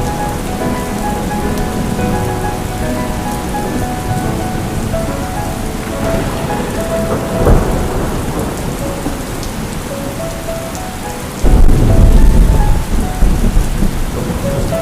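Steady heavy rain with rolling thunder. There is a short thunder swell about seven seconds in, and a sudden, much louder low rumble of thunder breaks in near the end.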